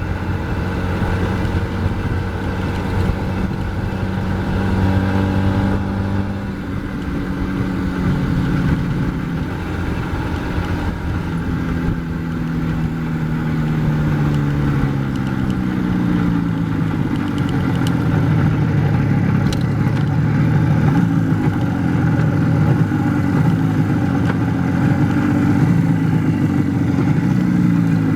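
IZh Jupiter-4 two-stroke twin-cylinder motorcycle engine running under way, its pitch climbing and then dropping again and again as the bike accelerates through the gears.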